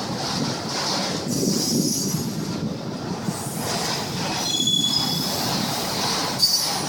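Train rolling past with a continuous low noise, its wheels giving several short, high-pitched squeals.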